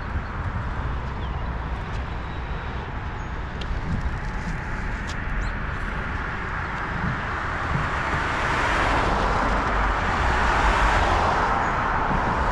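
Road traffic at an intersection, with wind rumbling on the microphone; in the second half the tyre noise of a passing car swells. A few faint bird chirps in the first half.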